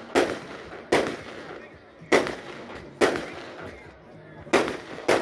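Fireworks going off: six sharp bangs at uneven intervals, each with an echoing tail.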